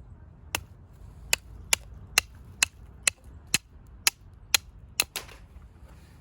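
Firewood being split with rapid blows: ten sharp knocks, about two a second, with a short scrape after the last one.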